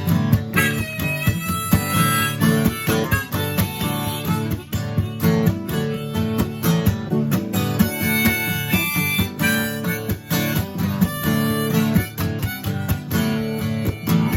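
Instrumental break of a song: an acoustic guitar strummed in a steady rhythm, with a harmonica playing held melody notes over it from about half a second in.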